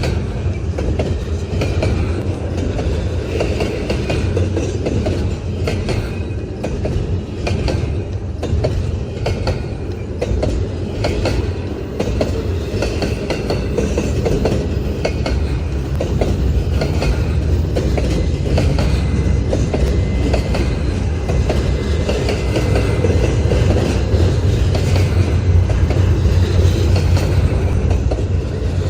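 Intermodal freight train cars rolling past, wheels clicking over the rail joints in a steady clickety-clack over a loud, continuous rumble that grows a little louder in the second half.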